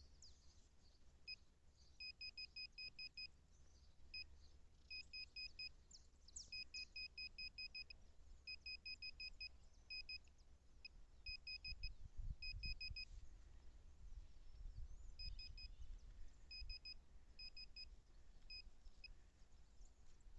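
Nokta Makro Simplex+ metal detector sounding target beeps as its coil sweeps the ground: short beeps of one high pitch in rapid runs of several, repeating with pauses, signalling metal under the coil. A low rumble swells around the middle.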